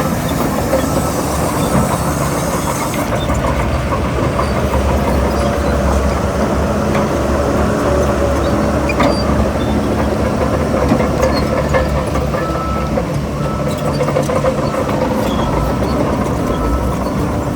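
Heavy diesel earthmoving machinery running steadily with a deep rumble, with a few faint clanks over it.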